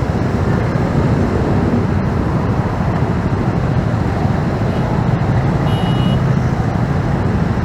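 Steady riding noise from a motorcycle in city traffic: wind rush on the microphone mixed with engine and surrounding traffic. A short, high beep sounds about six seconds in.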